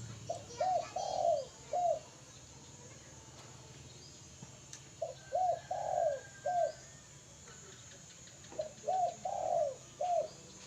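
Spotted dove (tekukur) cooing: three phrases a few seconds apart. Each is a quick run of short, low notes with one longer, louder coo in the middle.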